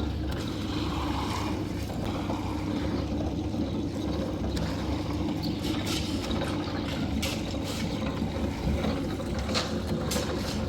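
An engine on the concreting machinery, the tractor or the concrete mixer, running steadily with a low, even hum and a few faint clicks.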